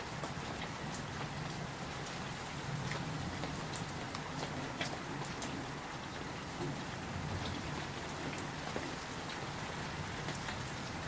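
Steady rain from a summer thunderstorm, a constant hiss with many single drops ticking sharply on nearby surfaces.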